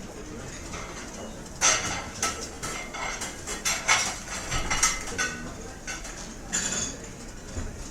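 Restaurant ambience: cutlery and dishes clinking and clattering over a steady background hum of the room. There is a busy run of clinks from about a second and a half in to about five seconds, and another burst near the end.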